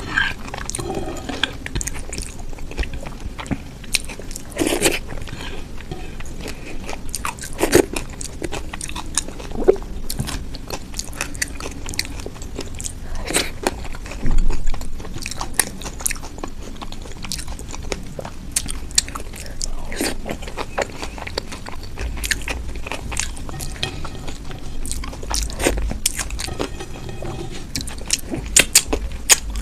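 Close-miked ASMR eating: irregular bites, crunching and chewing, with scattered sharp mouth clicks.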